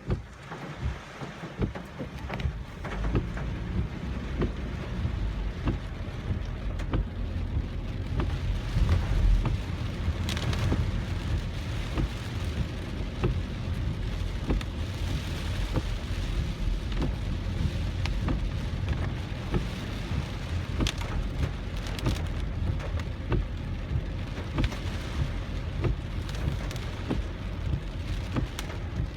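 Heavy typhoon rain hitting a moving car, with many separate drop impacts over a steady hiss. A low rumble from the car and the wind builds about three seconds in.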